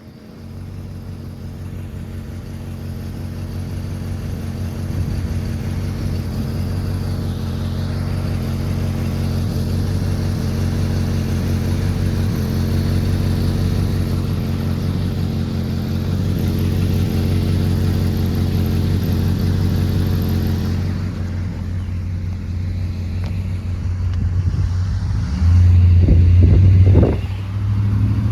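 Car engine idling steadily at close range, growing gradually louder, with a brief rise in level and pitch near the end.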